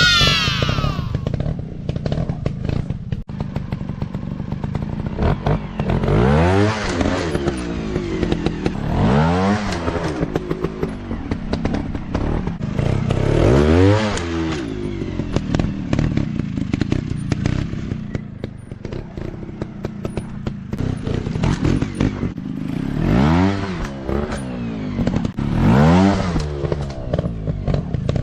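Off-road dirt bike engine revving up and dropping back in repeated surges, about five times, over a steady running note, with knocks and clatter from the bike riding rough ground.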